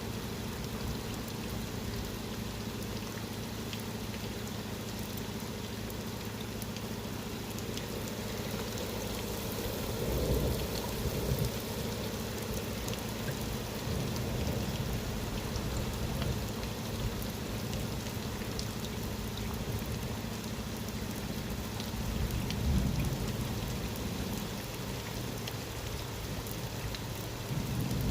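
Steady rain falling during a thunderstorm, with low rumbles of thunder swelling about ten seconds in, again a little past twenty seconds, and near the end.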